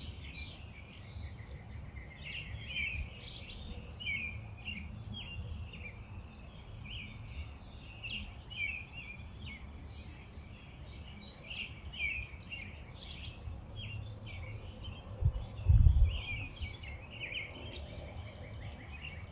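Small birds chirping over and over in short, quick calls, over a low steady outdoor rumble. A brief low thump about fifteen seconds in is the loudest moment.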